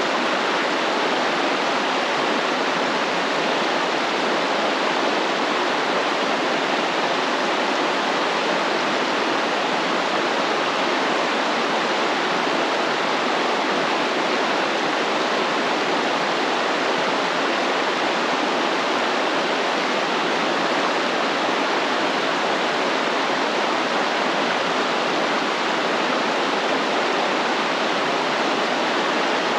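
Stream water flowing and rushing in a steady, even hiss.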